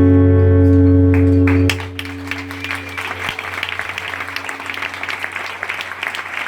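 A live band's final chord, led by guitar, rings out and is cut off abruptly about a second and a half in. The audience then applauds.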